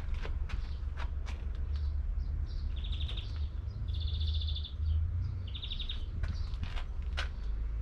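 Small birds chirping, with a short, rapid high trill repeated about four times, over a steady low rumble.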